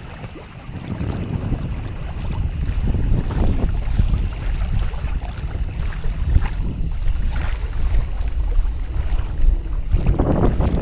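Wind buffeting the microphone in a low, steady rumble, with water rushing and splashing along a kayak under sail.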